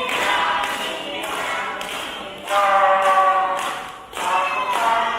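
A group of children singing together, with long high notes held for about a second at a time.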